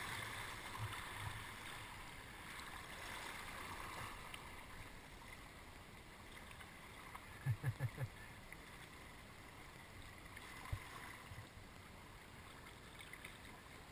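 Faint steady rush of flowing river water, with a quick run of four dull low thumps a little past halfway through and a single knock a few seconds later.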